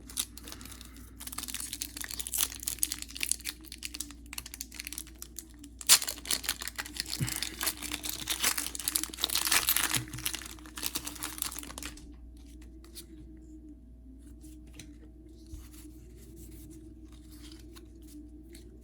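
Foil Pokémon booster pack wrapper being torn open and crinkled: a dense crackling rustle from about a second in until about twelve seconds in, then only a few faint light ticks.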